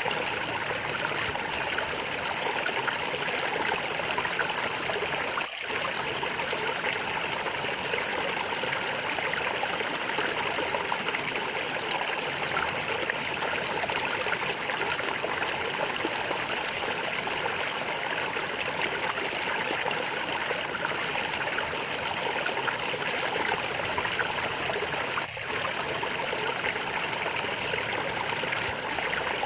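Water flowing and gurgling steadily, like a small stream, with two momentary breaks: one about five seconds in and one near the end.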